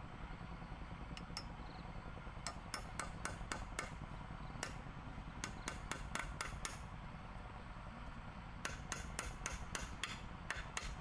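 A run of sharp knocks, like chopping or hammering, about three to four a second in short spells, over a steady low rumble.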